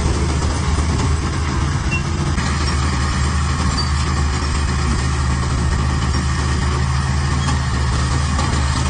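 Heavy diesel engine of earthmoving machinery running steadily, a low drone, with a higher-pitched mechanical noise joining about two and a half seconds in.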